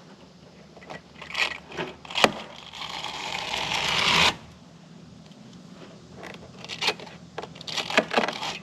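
Scraping and clicking from tools being handled during work on an RV air-conditioner: several sharp clicks, then a hissing scrape of about two seconds that grows louder and stops abruptly, then more short scrapes and clicks.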